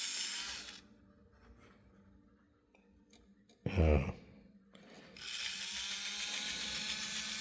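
Small electric motor of an HO-scale 0-10-0 steam locomotive running with a steady whirring hum. It stops just under a second in, and a short, louder sound comes near the middle. About five seconds in it starts running again. The drive has little torque and stalls easily, which the owner puts down to the worm gear slipping against the large gear.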